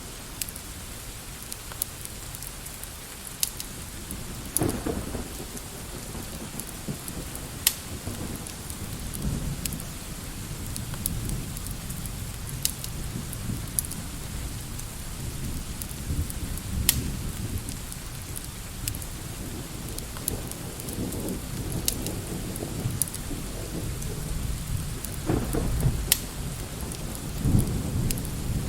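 Steady rain with low rolls of thunder swelling up several times, the last near the end. Scattered sharp crackles and pops of a wood fire sound over it.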